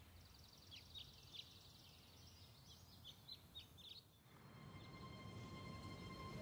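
Faint birds chirping in quick short high notes over quiet ambient noise. The chirping stops about four seconds in, and a low, steady rushing noise slowly grows.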